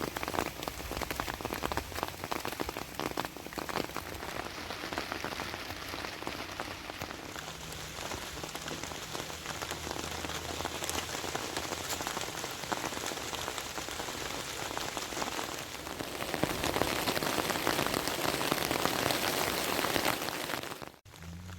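Steady rain falling, a dense even patter that grows louder for the last few seconds and then cuts off abruptly near the end.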